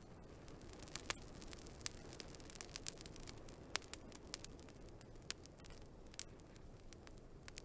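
Wood fire burning, with irregular sharp crackles and pops over a soft steady rumble of flame.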